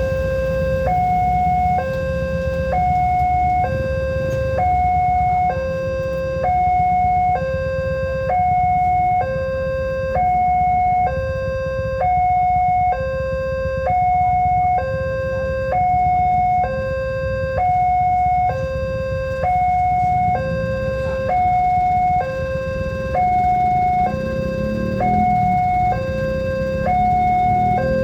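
Railway level-crossing warning alarm sounding a two-tone electronic signal, alternating between a lower and a higher tone about once a second, which warns that a train is approaching. A steady low rumble runs underneath and grows a little stronger near the end.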